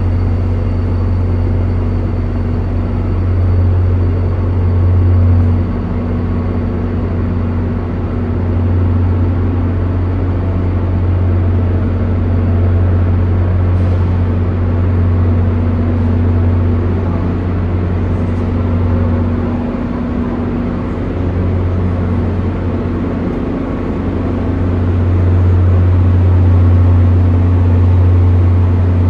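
A heavy vehicle's engine running steadily with a loud, low drone that rises and eases slightly in level a few times.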